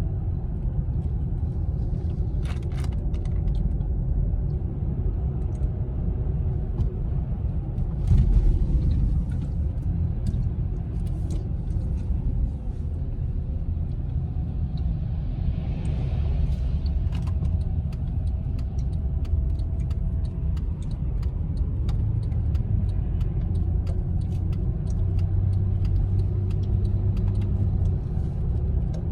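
Steady road and engine rumble heard inside a moving car's cabin, with scattered light clicks and a brief louder bump about eight seconds in.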